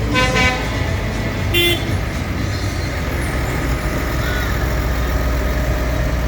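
Tractors rumbling steadily past, with two short horn toots in the first two seconds.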